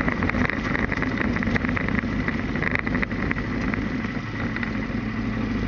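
Motorcycle engine running steadily, with a constant rushing noise over it.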